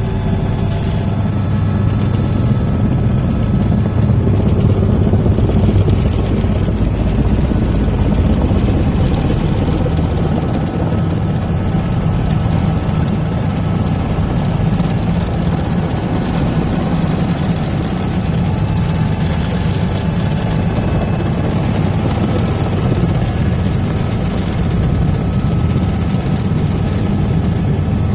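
Helicopter in flight: a steady rotor and engine drone with a thin, high, steady whine above it.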